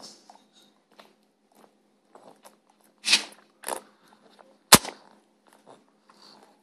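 Quiet eating and breathing noises: scattered small clicks, two short breathy puffs a little past three seconds in, and one sharp click near five seconds in, the loudest sound.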